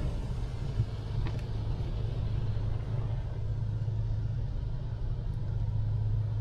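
Steady low rumble of a truck's engine idling, heard from inside the cab.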